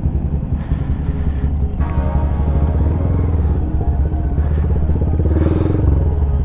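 Honda Grom's single-cylinder engine with an aftermarket Zoom Loop exhaust running at low revs under clutch and throttle during slow-speed turns, with a brief rise in revs about five seconds in.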